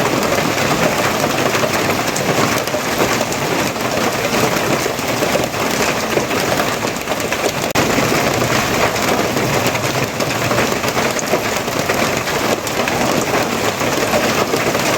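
Steady rain falling and pattering on a surface, an even, unbroken hiss.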